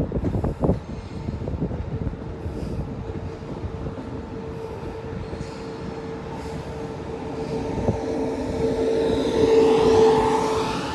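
A train drawing near, with a steady whine that grows louder to its peak about ten seconds in and then eases off. A few sharp knocks sound in the first second.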